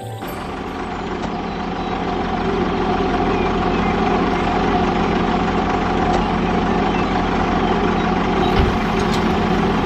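A heavy engine running steadily, like a truck idling, growing louder over the first few seconds and then holding level.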